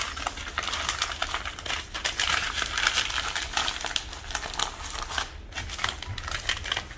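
Wrapping material crinkling and rustling as herbs are rolled into small packets, a dense run of crackles.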